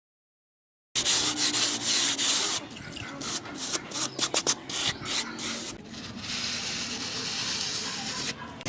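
Rough scraping and rubbing on a hard surface, starting about a second in, with a few sharp clicks in the middle and a steadier rasping hiss near the end.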